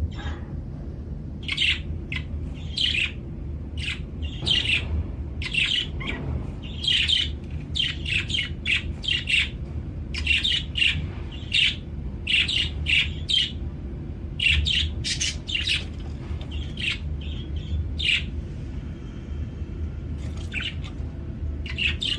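Budgerigar chirping and squawking: runs of short, sharp, high chirps that thin out near the end, over a steady low hum.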